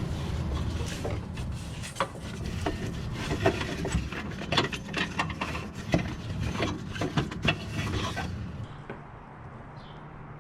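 Irregular clicks, knocks and clatter of metal hand tools at work, in the manner of serpentine-belt replacement with ratcheting wrenches. The clatter stops about eight seconds in, leaving a quieter background with a few faint bird chirps near the end.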